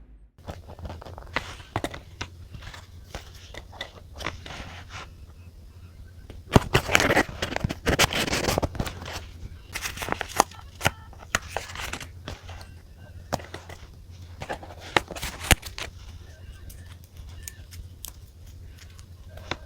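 Close-up paper and stationery handling at a desk: rustling and crinkling of paper with many small taps and clicks, busiest from about six to nine seconds in, over a steady low hum.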